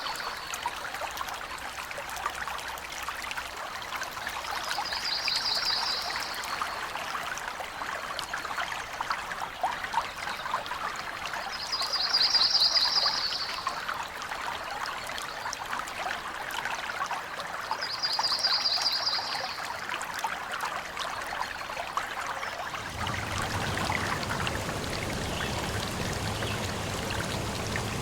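Small stream trickling and burbling over stones, with a bird's rapid trilled song repeated four times, about every six seconds. About 23 s in, a deeper, fuller rush of water joins in.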